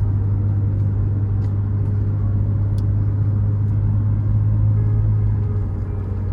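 Vehicle driving along, a steady low engine and road drone with a few faint ticks.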